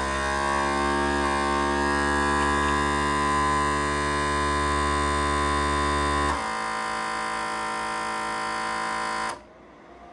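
Chamber vacuum sealer's vacuum pump running with a steady electric hum while it draws the air out of the bag. About six seconds in the sound changes to a quieter steady note, and it cuts off suddenly about three seconds later as the cycle ends.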